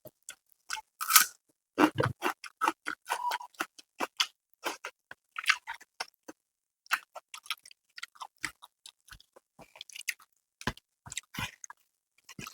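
Close-miked chewing and mouth sounds of someone eating a meal of rice and spicy chicken: irregular wet smacks and crunches with short pauses between bites.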